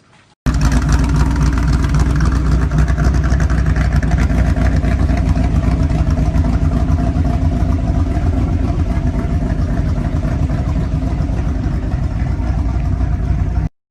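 A car engine running loud and steady with a heavy low rumble. It starts suddenly and cuts off suddenly near the end.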